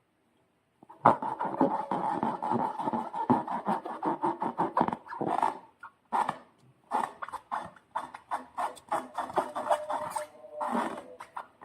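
Slime being squished and worked by hand, a dense run of wet crackling squelches with a couple of short pauses, starting about a second in.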